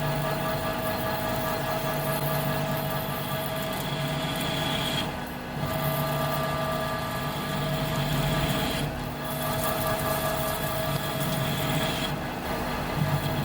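Metal lathe running steadily with a constant hum and whine while machining steel. The sound breaks off briefly about five, nine and twelve seconds in and picks up again each time.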